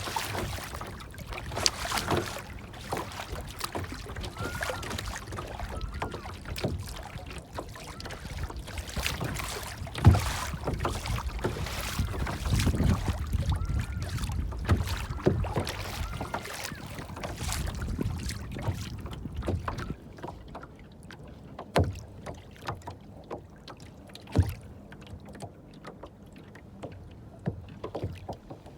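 Water splashing and sloshing, with many irregular sharp splashes or knocks that are busiest in the first two-thirds and thin out after about twenty seconds. A few faint short chirps sound over it.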